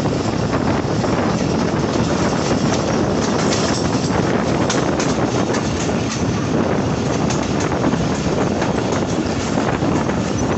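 Passenger train running steadily, heard from on board: a constant rumble of wheels on the rails, with wind blowing on the microphone.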